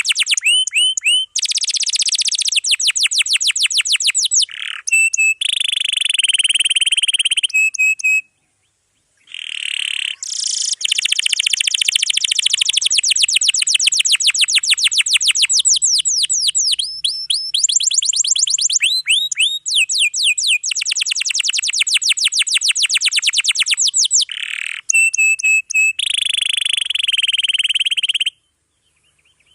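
Domestic canary singing in long, fast rolling trills of rapidly repeated high notes, with brief pauses about eight seconds in and near the end.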